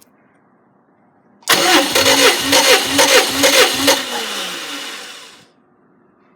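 A Subaru EJ253 2.5-litre flat-four engine is turned over by its starter. It starts suddenly about a second and a half in and beats evenly for about two and a half seconds. Then it winds down with a falling pitch and stops.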